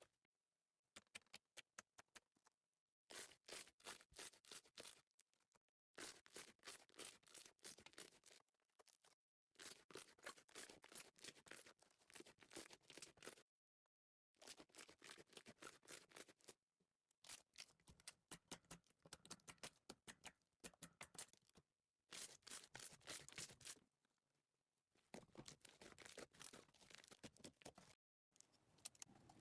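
Slime being handled by hand, faint rapid crackling clicks and pops in bursts of a couple of seconds, broken by abrupt gaps of silence.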